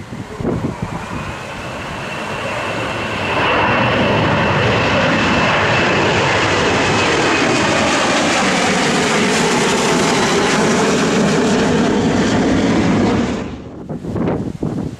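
Airliner's engines passing close overhead: a high whine and engine noise build over the first few seconds, hold loud and steady for about ten seconds, then cut off abruptly near the end.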